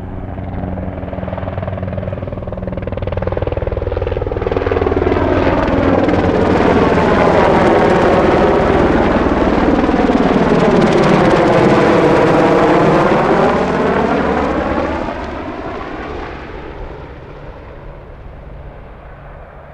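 Sikorsky UH-60 Black Hawk helicopter passing by: the rotor and engine sound swells to a loud peak past the middle and then fades away.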